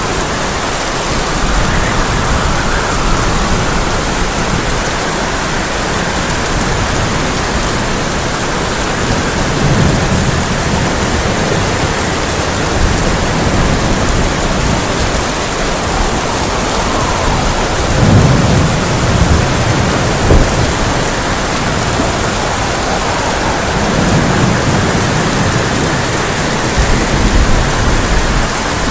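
Heavy rain drumming steadily on a tin roof, with rolls of thunder rumbling about a third of the way in, again about two-thirds in (the loudest), and near the end.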